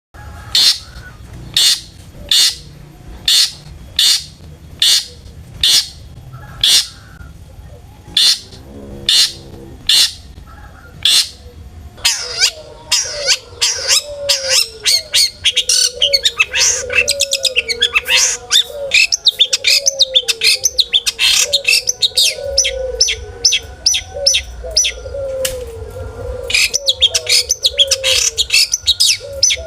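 Long-tailed shrike (cendet) singing: sharp high calls about once a second, then from about twelve seconds in a dense, fast chattering song. A lower wavering note repeats underneath the chatter.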